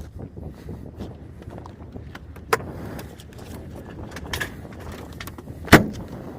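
Wind rumbling on the microphone, with scattered clicks and two sharp knocks of handling, the louder knock near the end.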